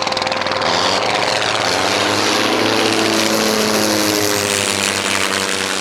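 A Sopwith Camel with its rotary engine and a Fokker Dr.I triplane flying past together, engines running loud and steady, their pitch dropping as they go by.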